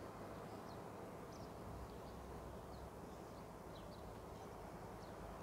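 Quiet outdoor ambience: a low steady hum with faint, scattered high bird chirps.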